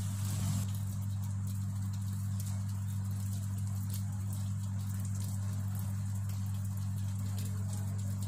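A steady low hum, with faint light ticks and taps scattered through it.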